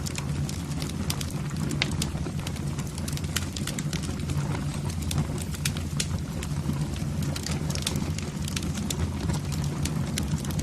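Wood fire burning in a fireplace, crackling with many irregular sharp pops and snaps over a steady low rumble of flames.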